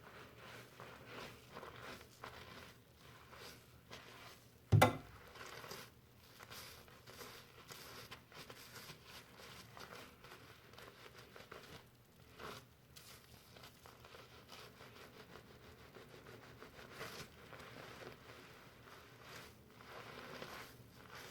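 Fingers working foamy shampoo lather through hair: a soft, irregular crackling rustle. One sharp, loud thump a little under five seconds in.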